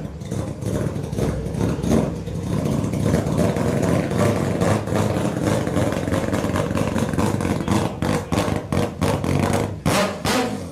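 Mazda rotary engine running with a choppy, rapidly pulsing exhaust note, its level rising and falling as it revs.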